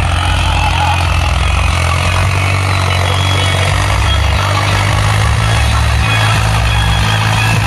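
New Holland 3630 tractor's diesel engine running steadily and loudly, with a deep even hum.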